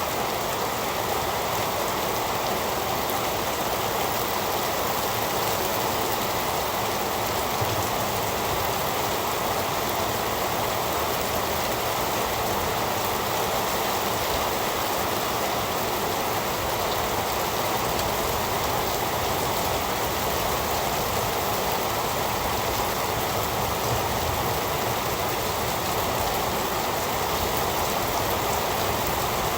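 Steady heavy rain falling, an even hiss without breaks or thunder.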